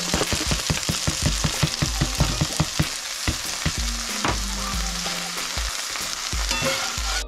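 Chicken and freshly added diced onion sizzling in hot oil in a cast-iron skillet, with a quick run of pops and clicks in the first three seconds as the onion lands, then a metal spatula stirring.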